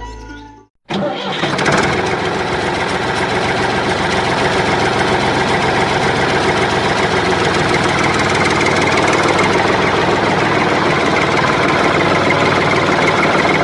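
A motor or engine running steadily, starting abruptly about a second in.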